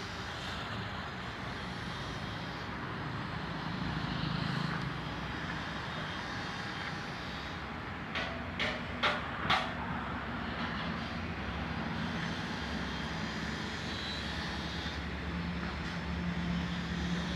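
A steady engine drone with a low hum, and four sharp knocks in quick succession about halfway through.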